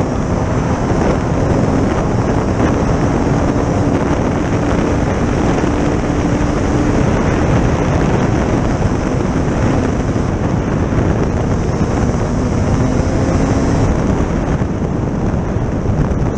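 A vehicle's engine running at a steady pace, with heavy wind rushing over the microphone as it rides along.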